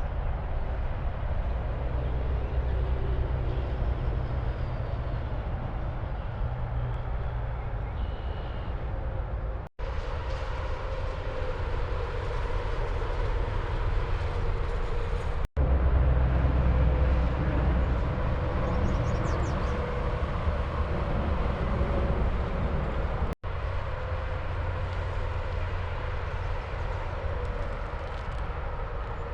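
Steady rumble of highway traffic and tyre noise as trucks travel the turnpike, broken by three brief, sudden dropouts where clips are joined.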